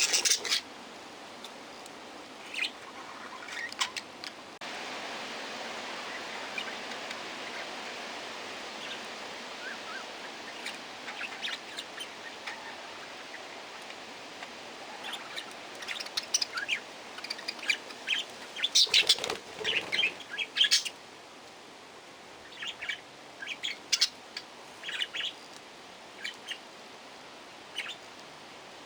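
Aviary budgerigars and other small parrots chirping in scattered short, high calls, busiest just past the middle, over a steady background hiss.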